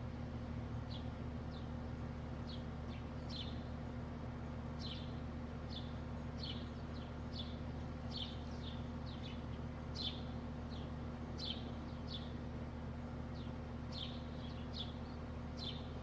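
A bird chirping repeatedly: short, high, downward-sliding chirps, about one or two a second, over a steady low hum.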